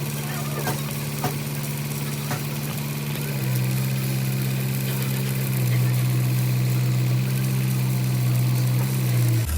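A machine engine or motor running with a steady low hum. It shifts pitch in steps and grows louder partway through, with a few light clicks in the first couple of seconds.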